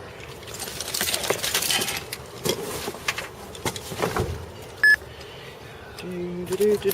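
Tools and loose metal items clinking and clattering as they are rummaged through and shifted in a cluttered HVAC service truck. A short high beep comes about five seconds in, and a steady tone starts near the end.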